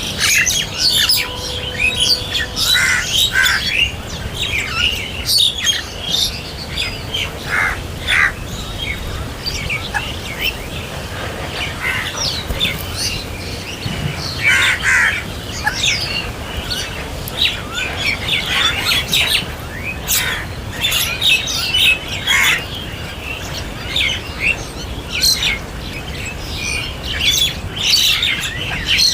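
Crows cawing at intervals over a busy chorus of smaller birds chirping.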